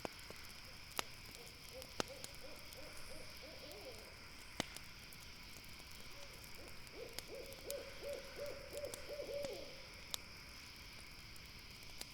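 An owl calls in two runs of quick, evenly spaced hoots, the second run longer and louder. Under it a wood campfire crackles, with a handful of sharp pops.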